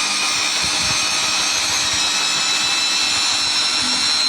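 Samsung Ecobubble washing machine in its spin cycle: the drum and motor run with a steady rushing noise and a high whine that slowly rises in pitch as the drum speeds up.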